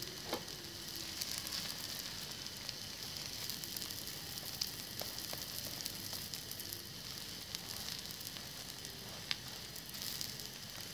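Beaten egg and a slice of bread frying in a hot pan: a steady sizzle with a few small pops.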